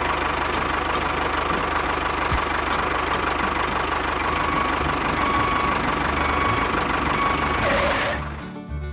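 Small engine running steadily with a fast low throb, dying away near the end.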